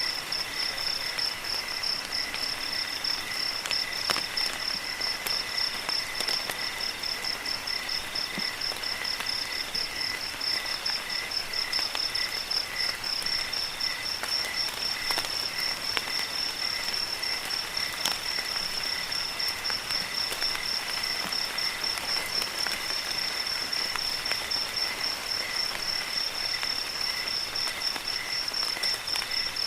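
Crickets chirping in a steady, rapid high trill, joined by a slower pulsing call lower in pitch. Underneath is an even hiss of light rain with scattered faint drips.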